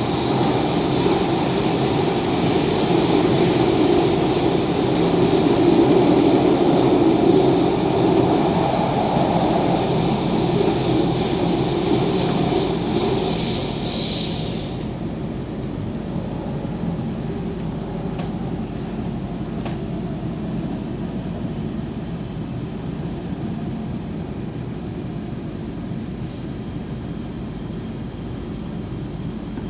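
MTR K-Train electric multiple unit running, heard from on board: a steady rumble of wheels and running gear with high steady whining tones. About halfway through the whine cuts out abruptly and the running noise becomes lighter.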